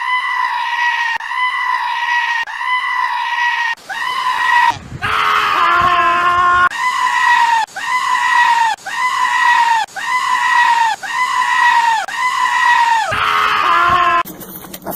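A goat screaming in a fast run of short, loud, high-pitched cries, about one and a half a second, each falling off at its end. Around five seconds in and again near the end comes a longer, wavering call at a lower pitch.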